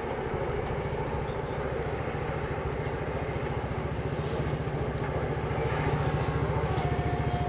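An approaching train's locomotive: a rapid, even low beat that grows gradually louder as it nears. A faint short steady tone sounds near the end.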